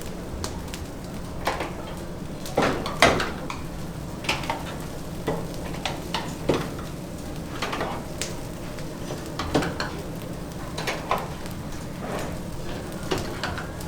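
Restaurant kitchen clatter: scattered clinks and knocks of dishes and metal utensils, a dozen or so sharp hits, the loudest about three seconds in, over a steady low hum.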